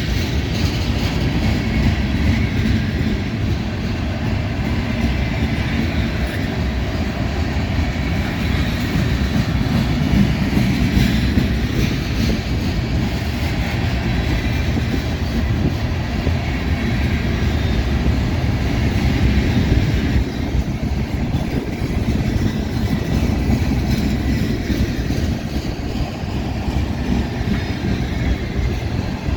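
Freight cars of a Norfolk Southern mixed freight train rolling past close by: a loud, steady rumble with wheels clattering on the rails.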